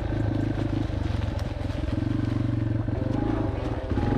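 Yamaha TT-R230 dirt bike's single-cylinder four-stroke engine running under throttle, its pitch rising about three seconds in and dropping briefly near the end.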